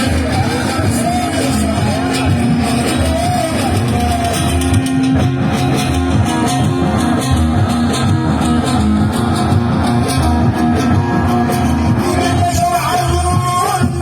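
Loud amplified live party music: a singer's voice over sustained instrument notes and a steady beat. The singing is heard in the first few seconds and again near the end, with the instruments carrying the middle.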